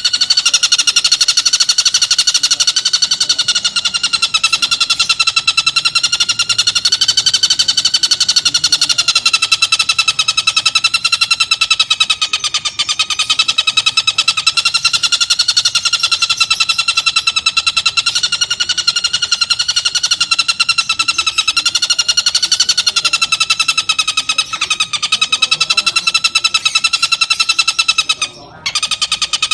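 Tengkek buto kingfisher giving a harsh, rapid rattling call, the 'tembakan' that keepers use as master calls, held almost without a break and dropping out briefly near the end.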